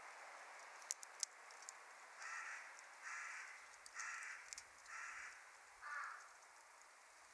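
A crow cawing five times in a steady series, harsh and evenly spaced, starting about two seconds in. A wood fire crackles faintly, with a couple of sharp pops near the start.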